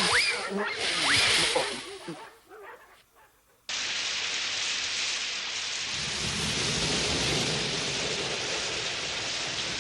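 Car wash water jets spraying onto a car: a steady rushing hiss that starts suddenly a little over a third of the way in, after a brief lull. Before the lull there is a noisier stretch with a few short gliding squeaks.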